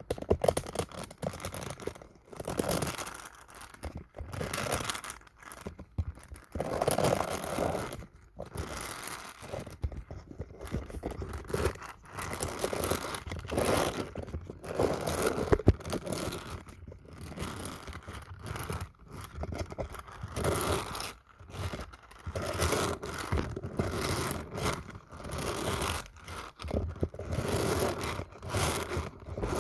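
Close-up ASMR handling sounds: irregular crinkling, tearing and scraping strokes, one after another with short gaps.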